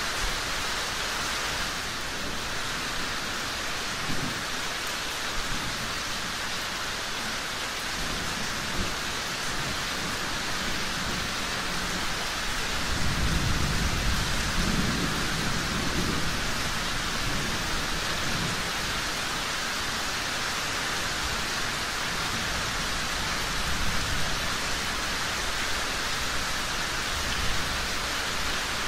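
Steady rain falling, an even hiss. About halfway through, a low rumble of distant thunder swells and fades over several seconds.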